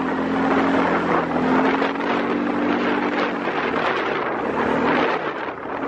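Small gasoline engine running steadily under a loud rushing noise; the engine's hum fades out near the end.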